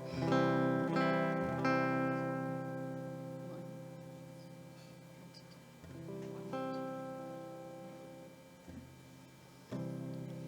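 Solo acoustic guitar playing chords without singing: a few chords strummed in the first two seconds ring out and fade, then more are struck about six seconds in and again near the end.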